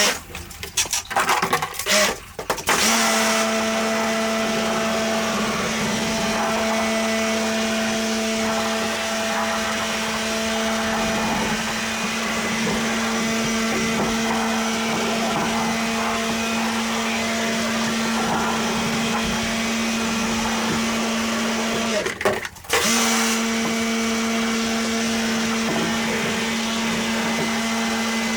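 An electric motor-driven cleaning machine running steadily with a hum and a hiss. It starts after a few short stop-start bursts, cuts out for about half a second around 22 seconds in, then runs on.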